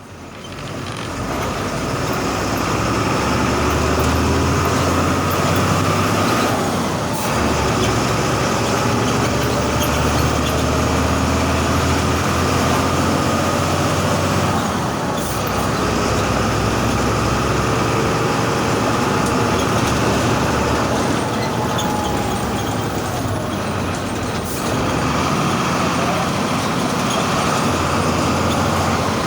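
VW 17-230 EOD city bus's MWM 6.12 TCE six-cylinder turbo-intercooled diesel running at medium to high revs under way, its pitch climbing and falling. Brief breaks in the sound about 7, 15 and 24 seconds in, typical of gear changes.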